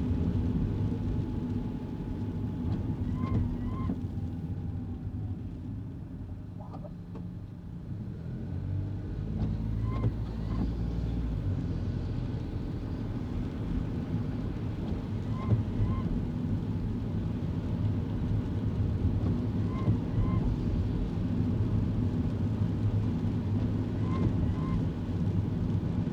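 Steady engine and road noise inside a kei car driving on wet roads. The rumble eases for a few seconds, then builds again as the car pulls away. Faint paired squeaks come every four to five seconds.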